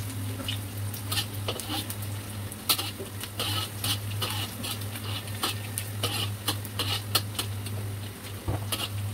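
Chopped garlic and onion frying in a little oil in a wok, with many sharp crackles and pops and a metal spatula scraping and stirring the pan. A steady low hum runs underneath.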